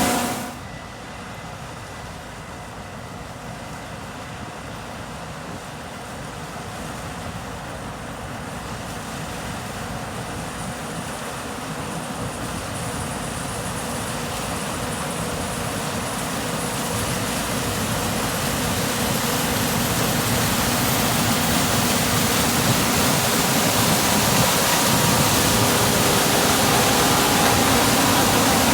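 Case IH 8250 Axial-Flow combine running while harvesting corn, a steady machine drone that grows gradually louder over many seconds as the combine draws nearer.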